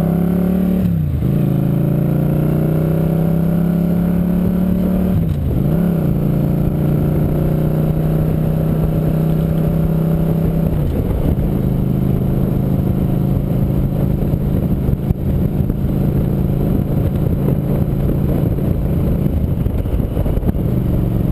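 Motorcycle engine pulling through the gears: its pitch drops sharply at upshifts about one and five seconds in. It then holds a steady pitch at cruise, under a growing rushing noise.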